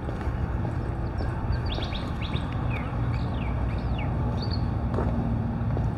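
A bird calling in a quick run of short chirps, some sliding down and some up, from about a second and a half in to past four seconds, over a steady low rumble.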